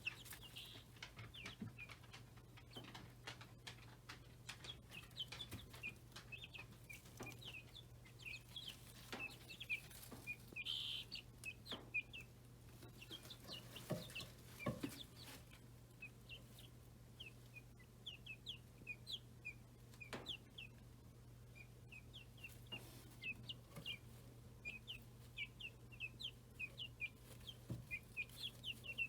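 A brood of young chickens and guinea keets peeping: many short, high peeps keep coming, faint, over a steady low hum.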